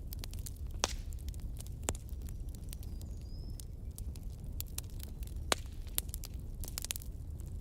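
Wood fire in a fireplace crackling, with irregular sharp pops over a low steady rumble of the flames; the loudest pops come about a second in, about two seconds in and about five and a half seconds in.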